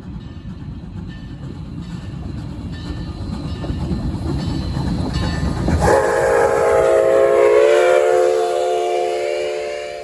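A train approaching with a rising rumble, then about six seconds in it sounds a loud, steady chord of several notes that is held to the end, dipping slightly in pitch as the train goes by.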